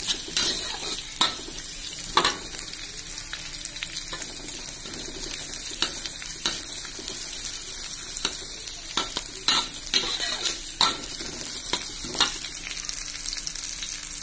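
Sliced shallots, garlic and chillies sizzling in hot oil in a wok as they are sautéed until fragrant, with a metal spatula scraping and knocking against the wok now and then as they are stirred.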